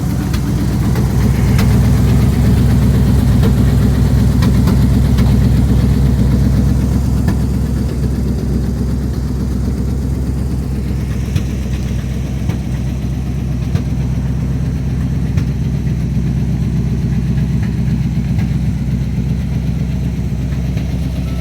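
1978 Jeep J20 pickup's engine idling steadily, with the occasional sharp pop. It is a little louder for the first several seconds.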